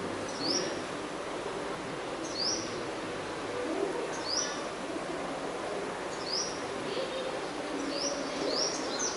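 A bird repeating a short, high call that slides upward, about once every two seconds, with a few calls close together near the end, over a steady background hiss.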